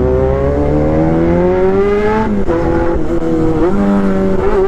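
Very noisy motorcycle engine accelerating through the gears: its pitch climbs for about two seconds, drops sharply at a gear change, then holds and climbs again with short dips at further shifts.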